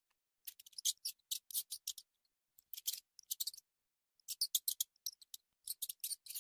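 A hamster making irregular runs of short, dry, high-pitched clicks and scratches, in several quick clusters.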